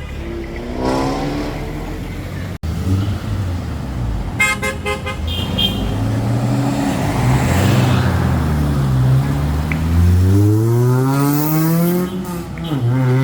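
Cars passing in street traffic: a short car horn honk about a third of the way in, then a car engine climbing steadily in pitch as it accelerates past near the end.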